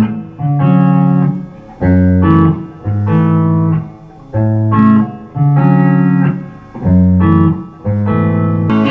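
Guitar playing a stop-start riff: held chords of about half a second to a second each, each one cut off sharply, with short gaps between them.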